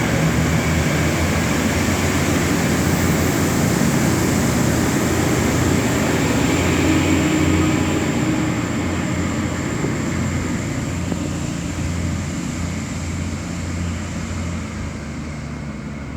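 Diesel passenger railcar set (V/Line VLocity) running with its engines at a steady low hum, loud at first and growing gradually quieter over the second half as it pulls away.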